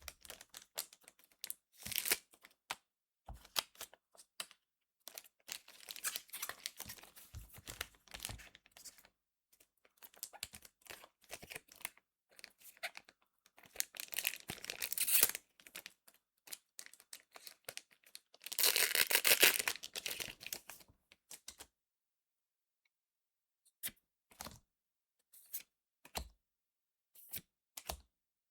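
Foil trading-card booster pack being torn open and crinkled, among small clicks and rustles of handling. There are two longer, louder stretches of tearing and crinkling, one a little after halfway and one about two-thirds of the way in.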